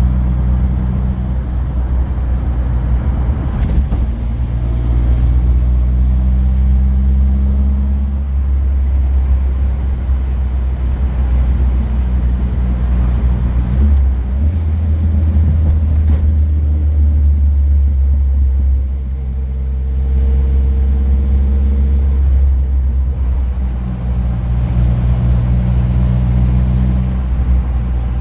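Car engine droning steadily while driving, heard from inside the car; its note shifts up and down several times as the car changes speed.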